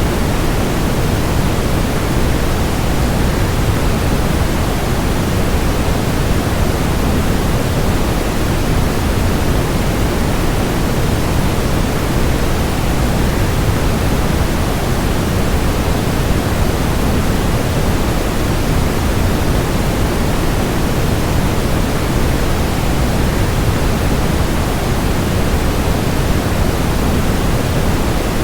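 Waterfall rush blended with white noise: a steady, unbroken hiss, heavier in the low range and thinner toward the top.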